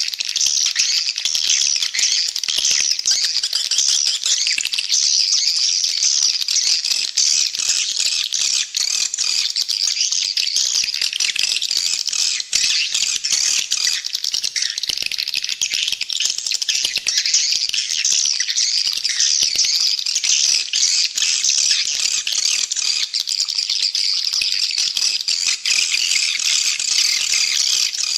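Swiftlets twittering in a dense, unbroken chorus of rapid high chirps: a swiftlet call track, the kind played in swiftlet houses to lure the birds in to roost and nest.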